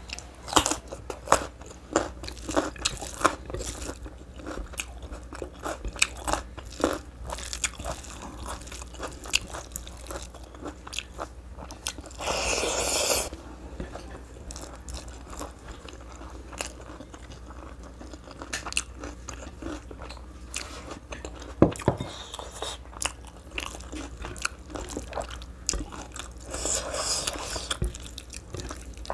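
Close-miked eating: repeated crunchy bites and chewing, with a louder noisy sound lasting about a second roughly twelve seconds in.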